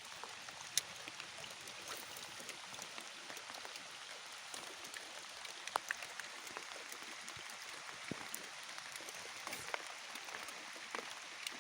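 Steady hiss of water, with scattered light ticks and clicks through it.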